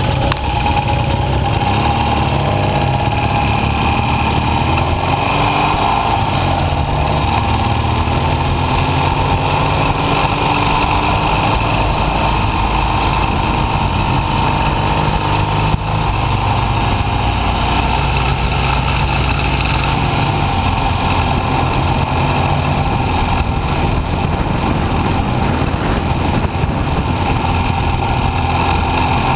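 Motorcycle engine running while riding, its note stepping and gliding up and down as the revs change, over a steady rush of wind noise.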